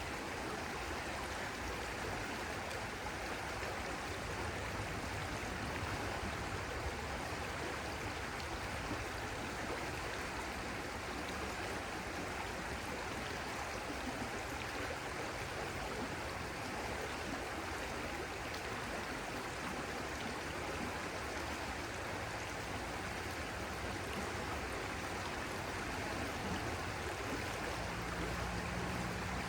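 Stream water flowing: a steady, even rush with no break.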